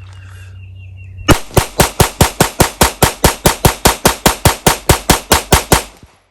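Rapid semi-automatic fire from a 9mm SAR 9 pistol: about two dozen shots in one fast, even string of roughly five a second, starting a little over a second in. It is a full mag dump through a +5 extended magazine that runs without a stoppage.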